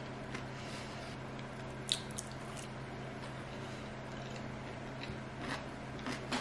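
Quiet chewing and mouth sounds of a person eating, with a few small clicks, over a steady low hum.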